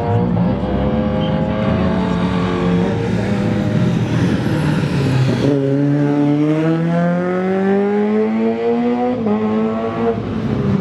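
A rally car's engine at full throttle, accelerating hard, its pitch climbing steadily through the gears. Sharp drops at the upshifts come about five and a half seconds in and again just after nine seconds.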